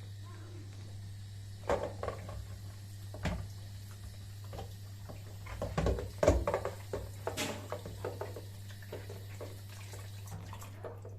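Water running from a kitchen tap into a sink, with scattered knocks and clatter of things being handled under it; the running water stops near the end.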